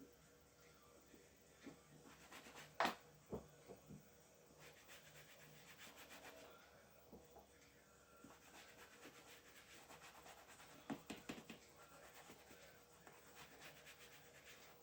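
Faint rubbing and scratching of handwork on a shoe, with a few sharp clicks: the loudest about three seconds in, and a short cluster around eleven seconds.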